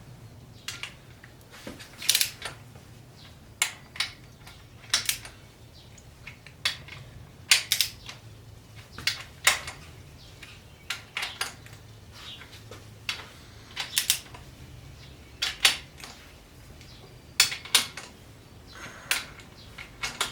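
Hand tools clinking and clicking against metal while main bearing cap bolts are worked on an engine block: short, sharp, irregular metallic clicks about once a second, over a low steady hum.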